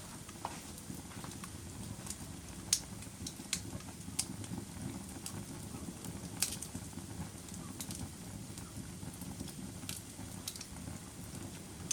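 Wood fire burning in a fireplace. A steady low rumble of flames runs under sharp crackles and pops scattered irregularly, the loudest near three seconds in and again a little past six seconds.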